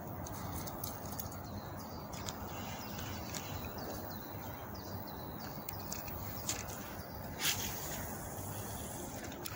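Songbirds chirping over a steady outdoor background hiss, in short repeated falling calls. A brief sharp noise stands out about seven and a half seconds in.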